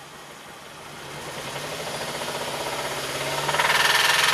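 2006 Mazda 3's 2.3-litre four-cylinder engine running on three cylinders with injector 2 cut, revving up from idle and holding at about 3,000 rpm. The knocking noise stays unchanged with injector 2 off; it is the rod knock that he traces to cylinder 1.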